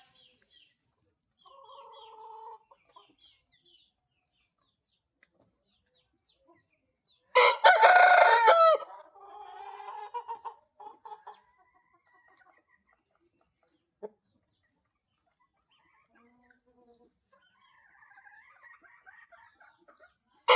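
Índio Gigante rooster crowing: one loud crow about seven seconds in, followed by quieter calls for a few seconds. A fainter call comes about two seconds in, and another loud crow starts at the very end.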